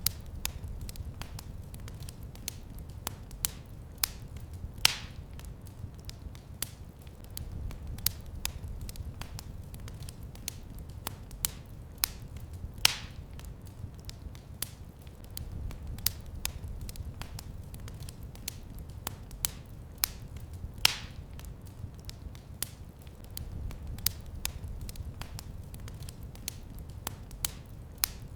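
Wood fire crackling in a fireplace: a dense, irregular patter of small snaps, with three louder pops spaced several seconds apart, over a low rumble of burning.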